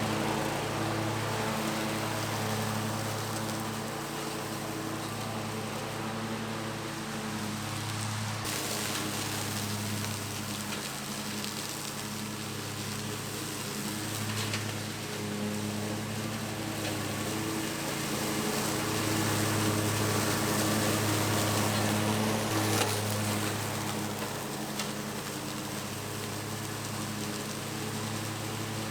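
Bad Boy Maverick zero-turn mower running with its cutting blades engaged: a steady engine hum with a hiss over it, swelling and easing a little as it works. A single sharp tick is heard near the end.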